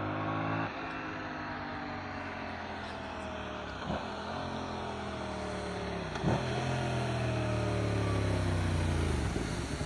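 2025 Yamaha MT-07's parallel-twin engine on the stock exhaust, running under way with quick-shifter gear changes: three short sharp breaks in the engine note, each followed by a change in pitch. Near the end the engine note falls away as the throttle closes.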